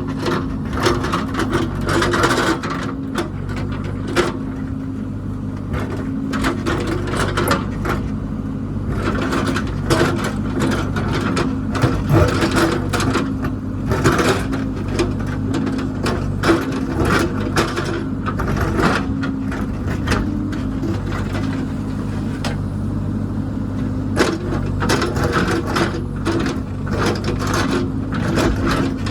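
Diesel engine of a heavy earthmoving machine running steadily, with frequent sharp knocks, cracks and scraping of working machinery and material on top.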